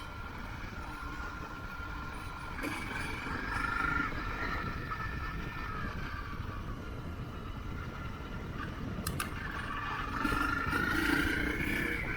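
Motorcycle engine running while riding, its pitch rising twice as the throttle opens, over a steady low rumble.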